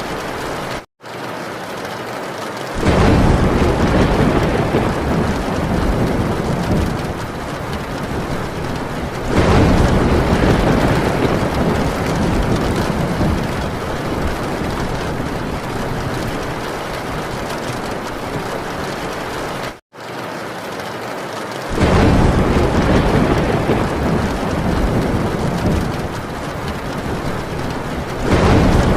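Heavy rain drumming steadily on a metal tin roof, with thunder rumbling in four times. The sound cuts out for an instant twice.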